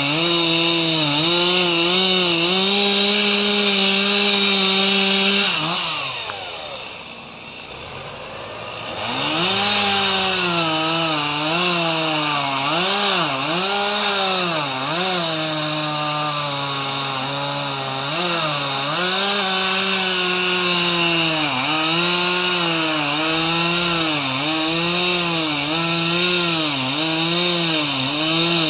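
Two-stroke chainsaw running at high revs while cutting wood, its pitch dipping again and again as the chain bogs in the cut. About six seconds in, the throttle is let off and the engine falls toward idle; about three seconds later it is revved up again.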